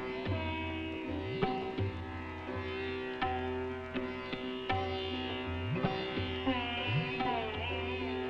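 Indian classical music: a sitar plucking notes and bending phrases over a steady drone, with low tabla strokes.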